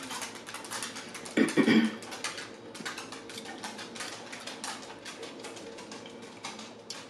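Close-miked chewing and lip-smacking, a steady run of small wet mouth clicks. A brief, louder hum of the voice comes about one and a half seconds in.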